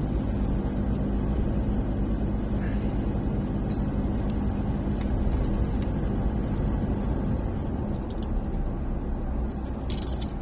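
Steady low rumble of a vehicle on the move, engine and road noise, with a constant low hum and a few light clicks near the end.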